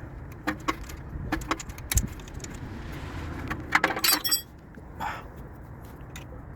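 Metal hand tools clicking and clinking at work on a car's wheel hub area, with a low thump about two seconds in and a quick run of ringing metal clinks about four seconds in.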